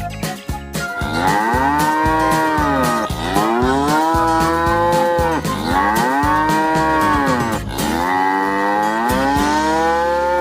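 Cow mooing: four long moos, each about two seconds, rising then falling in pitch, one after another with hardly a break.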